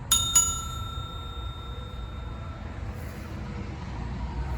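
A bell-like metallic ring, struck twice in quick succession near the start and then ringing out and fading over about two seconds.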